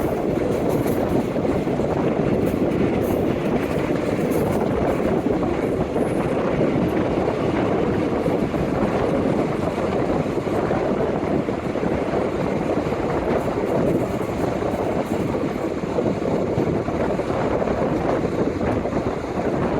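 Passenger train running at speed, heard on board: a steady rumble of wheels on the track with some wind noise.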